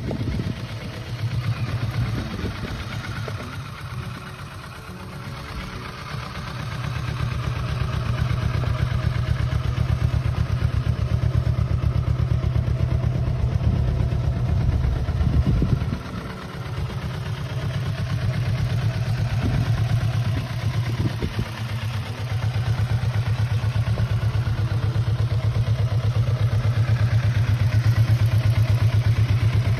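Kawasaki Vulcan S's 649 cc parallel-twin motorcycle engine running at idle with a steady, even pulse. It grows louder over the first several seconds and dips briefly a couple of times.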